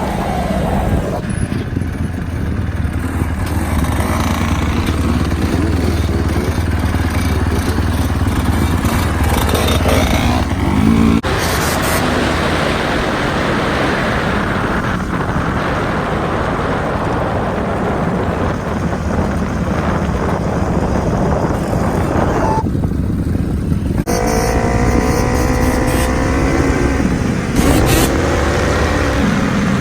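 Dirt bike engine running, with the revs rising and falling repeatedly in the last few seconds.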